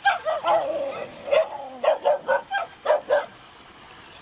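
Dogs barking in a quick run of short barks, with one longer, drawn-out yelp near the start; the barking stops a little after three seconds in.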